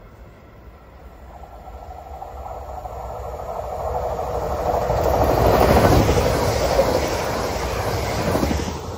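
Red DB Regio electric multiple unit approaching and passing at speed: the rolling noise of wheels on rails grows steadily, is loudest about six seconds in as the train goes by, and drops off sharply near the end, with a steady tone running under it.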